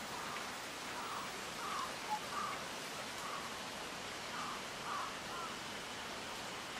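Steady outdoor hiss with a bird calling in the background, a string of short calls repeated several times, and one brief sharp note about two seconds in.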